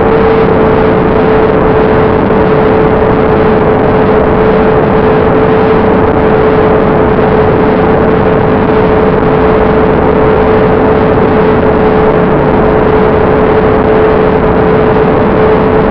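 Onboard audio of an electric-powered FPV flying wing in flight: the propeller motor runs at a steady throttle, giving one constant whine over a loud, even rush of air.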